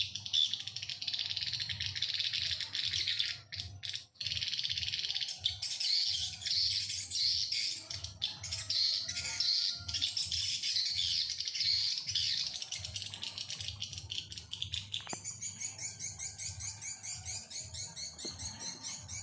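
Small birds chirping and calling densely and without pause. About three-quarters of the way through, the song gives way to a fast, evenly repeated call.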